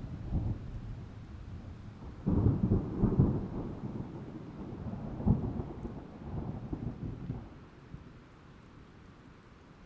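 Thunder rumbling with rain falling. The low rolling rumble swells about two seconds in, peaks in a sharper crack a little past five seconds, then dies away near the end.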